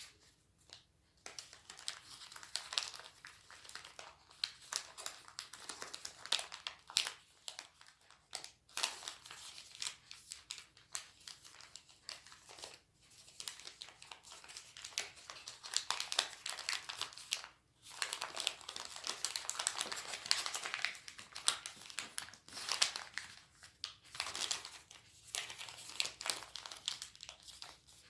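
A sheet of origami paper being folded and creased by hand. It gives a continuous crinkling and rustling with many sharp little crackles, broken by a few brief pauses.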